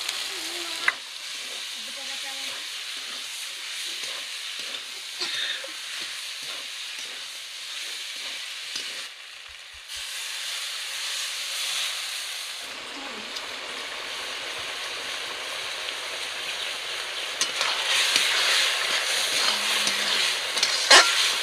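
Potatoes and a ground mustard, cumin and garlic paste sizzling in mustard oil in a metal wok over a wood fire, while the masala is stir-fried down. A metal spatula scrapes the pan and clicks against it, and the sizzling grows louder near the end as the stirring speeds up.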